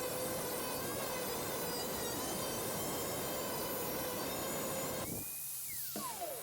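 Electric power tool running with a steady whine over a hiss, then switched off about five seconds in and winding down in a falling whine.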